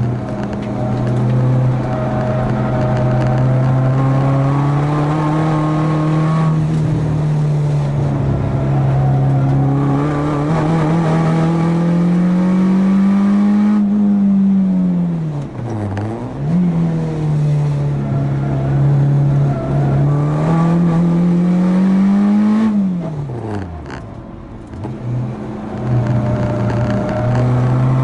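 Four-cylinder track car engine under hard load, revs climbing slowly through long pulls, then falling sharply twice as the car brakes and downshifts for corners before accelerating again.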